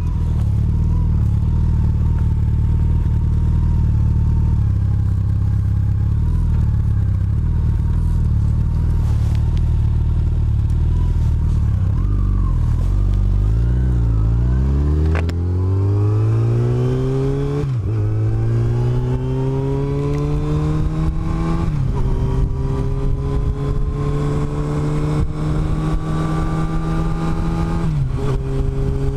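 Yamaha FJR1300's inline-four engine idling steadily, then pulling away and accelerating through the gears: the pitch rises, drops briefly at three upshifts, and climbs again after each.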